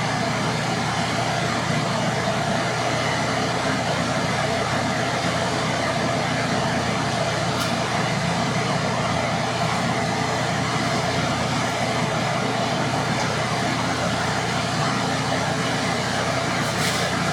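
Electric forge blower running steadily, a constant rushing hum of air being blown into the fire while the stock heats.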